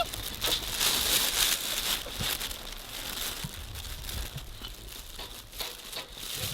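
Rustling and crinkling noise with scattered light clicks, loudest in the first two seconds, then thinning out.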